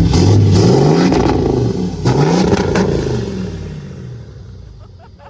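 The truck's engine, with its new exhaust, is revved twice, its pitch climbing each time. Then the engine note falls away and fades steadily.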